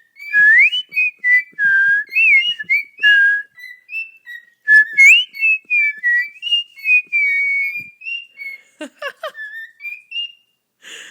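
Lutino cockatiel whistling a learned tune: a long run of clear whistled notes, many sliding up or down in pitch, in short phrases with brief pauses. A couple of short, harsher calls come near the end.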